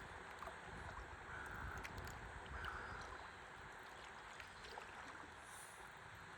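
Faint river water lapping and trickling around a stand-up paddleboard as it floats, with a low rumble underneath and a few small ticks.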